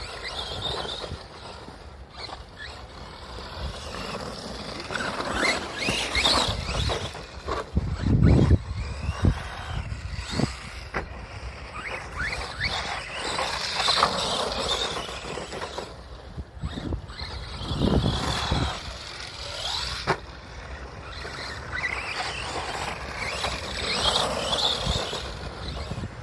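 Arrma Granite V3 RC monster truck's electric motor whining up and down in pitch as it speeds up and slows on dirt, with two louder low rumbles about 8 and 18 seconds in.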